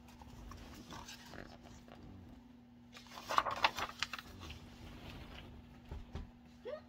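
Faint rustling and handling noise, with a denser burst of rustling about three seconds in and a couple of light knocks near the end.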